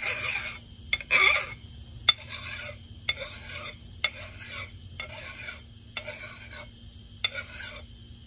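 Hand file rasping across the steel of an axe head in a steady rhythm of push strokes, each a short scrape, as the bevel of the edge is cut by hand.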